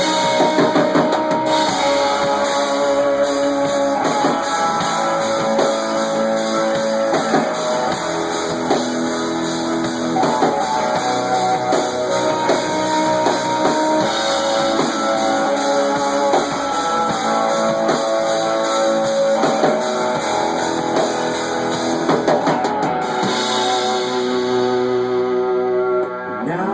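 Rock band playing live in rehearsal, with electric guitars over a drum kit. The playing thins and drops off sharply near the end as the song comes to a stop.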